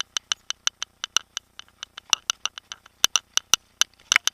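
Bicycle rear hub freewheel ticking while the rider coasts, about six sharp clicks a second, with a few louder clicks and a quick cluster near the end.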